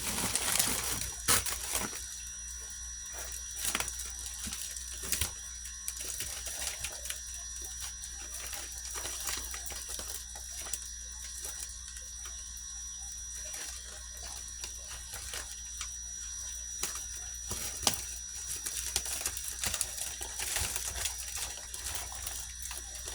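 Handling noise from unpacking shipping bags: scattered light clicks and crinkles, busiest in the first second or so, over a steady faint high whine and low hum.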